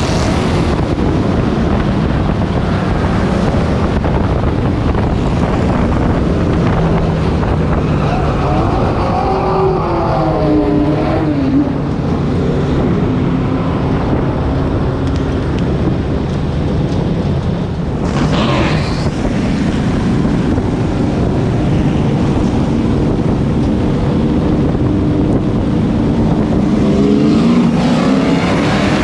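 Pro Truck race truck's engine heard on board at racing speed, its pitch dropping and climbing again about ten seconds in and rising near the end as the truck lifts and accelerates through the turns, with wind buffeting the microphone.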